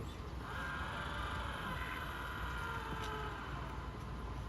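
Radio-controlled model boat's electric motor giving a steady high whine over a low rumble. The whine comes in about half a second in and fades near the end.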